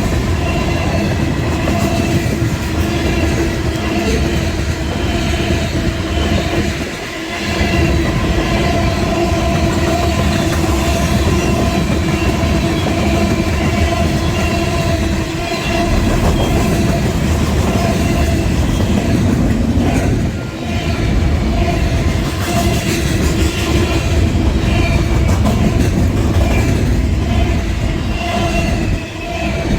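Union Pacific freight train's cars rolling past at speed: a loud, steady rumble and clatter of wheels on rail, with a faint ringing tone over it. The noise dips briefly four times.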